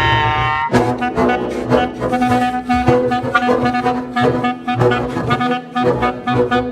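Contemporary chamber music for clarinet and double bass. A held note rich in overtones breaks off less than a second in, giving way to a dense run of short, rapid attacks over a steady low tone.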